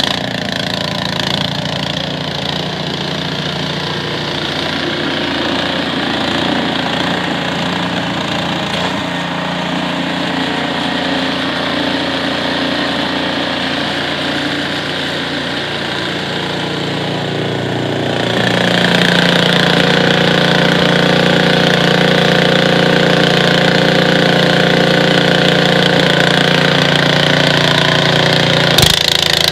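Snowblower engine running steadily, getting louder and brighter about 18 seconds in as it takes more load or comes closer.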